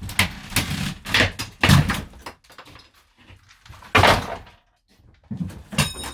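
A series of loud knocks, thuds and scraping noises as interior fittings of an old camper van are pried and pulled loose, with a short squeak near the end.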